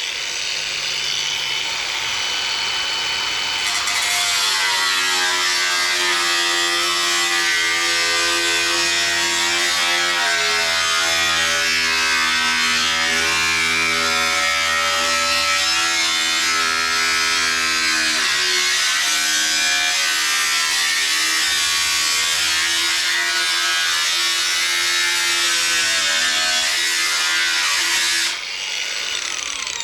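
A small high-speed power cutting tool slicing through the car's sheet-steel fender panel, running with a steady whine that dips in pitch as it bites. It winds down about two seconds before the end.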